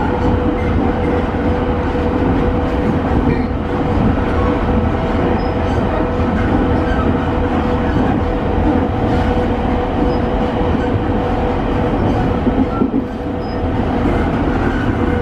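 JR East E217 series electric train running, heard inside the motor car: an even rumble of wheels on rail and running gear, with a steady hum from the Mitsubishi IGBT-VVVF inverter and traction motors.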